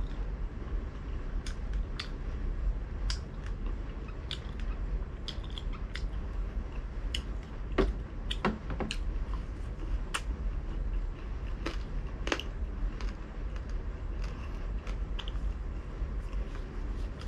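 A person chewing crispy fried pork belly, with scattered wet mouth clicks and smacks and a few louder clicks around the middle. A low steady hum runs underneath.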